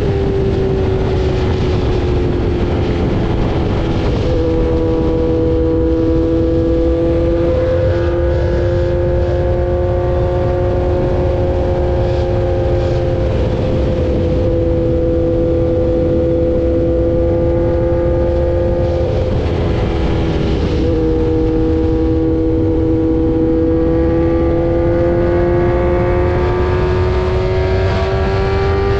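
Kawasaki Z900's inline-four engine running steadily under way at road speed, its note drifting slowly in pitch and shifting briefly about 4 and 20 seconds in, over heavy low wind rumble on the microphone.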